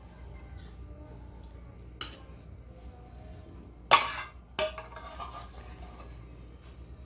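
Kitchen utensils and dishes clattering: a sharp clink about two seconds in, then a loud clatter near the middle and another half a second later, over quiet handling knocks.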